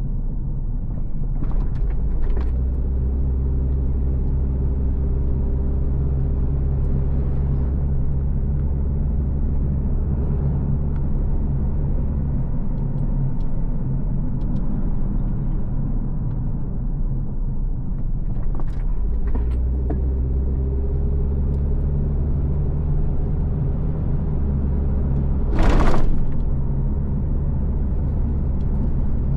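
Car driving along a road: a steady low rumble of engine and tyres, with a few light clicks and one brief, loud, hissing burst near the end.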